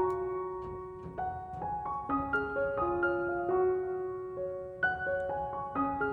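Soft background piano music: a slow, repeating phrase of single notes.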